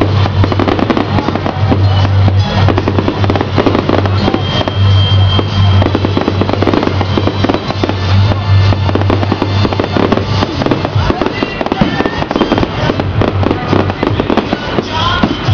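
Fireworks display: a dense, continuous run of bangs and crackles from bursting aerial shells and ground fountains, many explosions overlapping.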